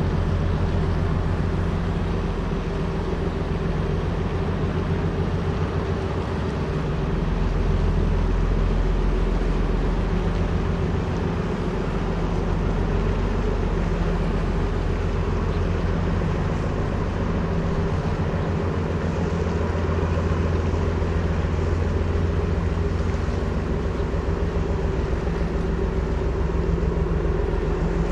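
Diesel engine of a river sand barge running, a steady low drone that swells slightly twice.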